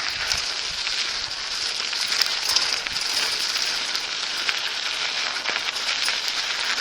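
Bicycle tyres rolling over a dirt and gravel path, a steady crackling hiss with faint scattered clicks and rattles.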